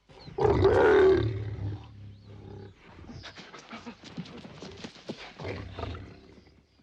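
A big cat roaring: one loud roar in the first second and a half, then quieter calls, and a second louder call about five and a half seconds in.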